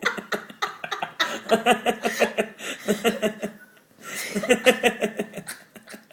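A man laughing in two bouts of quick, repeated ha-ha pulses, the second starting about four seconds in.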